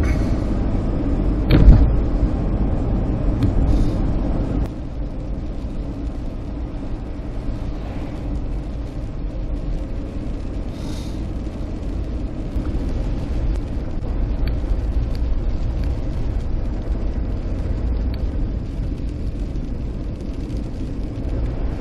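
Inside a moving car: steady low rumble of the engine and tyres on the road, with a sharp knock about a second and a half in. The rumble drops a little about five seconds in.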